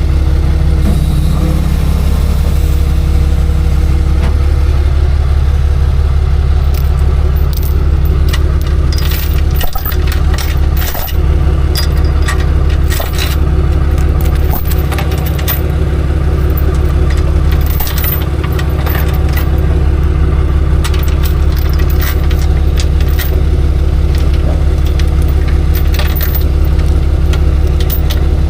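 A truck engine running steadily with a deep, even hum. Light metallic clicks and rattles come and go in the middle of the stretch.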